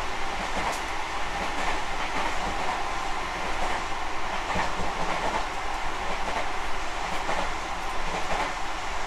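Tobu 50050 series electric commuter train running at speed, heard from inside motor car Moha 52068: a steady rumble of steel wheels on the rails with a few faint rail-joint clicks.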